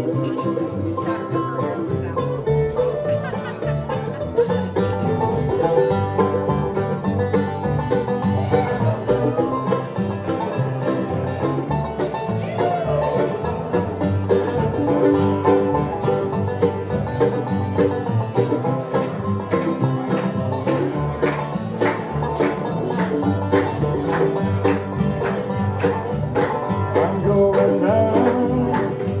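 Live bluegrass band playing an instrumental passage, with fast banjo picking over guitar.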